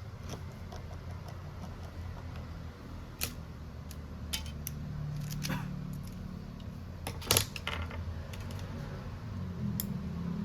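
Scattered small hard clicks and taps from tools and parts being handled on a phone repair bench, the loudest a quick double click about seven seconds in, over a low steady hum.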